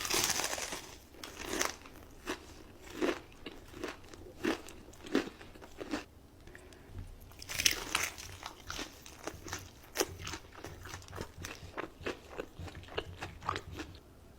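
A person biting into crispy food close to the microphone and chewing it: a loud crunch at the start, crunchy chews about every half second, a second big bite about seven and a half seconds in, then quicker chewing.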